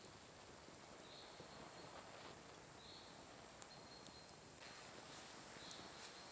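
Faint forest ambience: a bird repeating a short, high call about every two seconds, with a few faint crackles from a small wood campfire.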